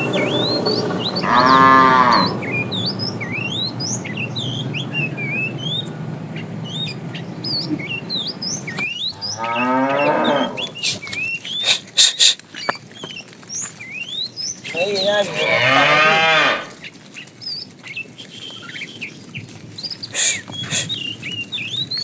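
Cows mooing three times, each a long, drawn-out call: about a second in, around ten seconds in, and around fifteen seconds in.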